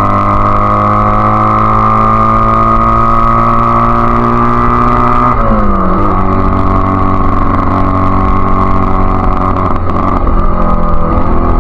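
Honda Rebel CA125's parallel-twin engine running through an aftermarket BSM/Highway Hawk exhaust while riding. The engine note climbs slowly for about five seconds, drops sharply, then holds steady with a couple of brief wavers near the end. With its current carburettor jetting, the engine is spluttering between quarter and three-quarter throttle.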